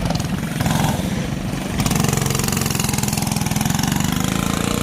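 Small single-cylinder engine of a Coleman pull-start minibike running under throttle, getting a little louder about two seconds in.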